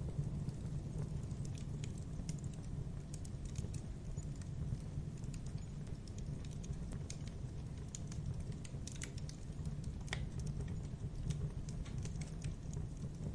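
Logs burning in a fireplace: a steady low rumble of the flames with frequent small, sharp crackles and pops scattered irregularly throughout.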